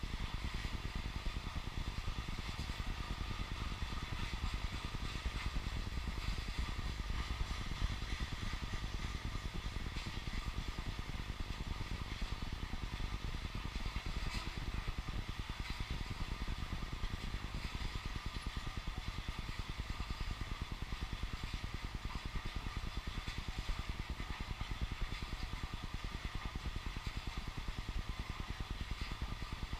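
Freight train of oil tank cars rolling past, with a steady clatter and rattle of wheels on the rails.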